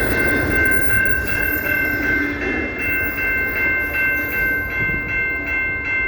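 CPKC train rolling past, its cars clattering over the rails with a regular beat of about three a second, over a steady high-pitched ringing tone that is held throughout.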